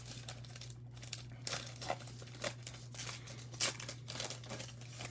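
Plastic foil wrapper of a trading-card pack crinkling and tearing as it is handled and opened by hand, with irregular crackles, over a faint steady low hum.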